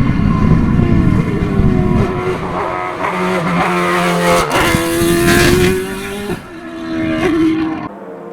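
Race car engine accelerating hard up a hill climb, its pitch rising and dropping several times as it shifts up through the gears. The sound cuts off abruptly near the end.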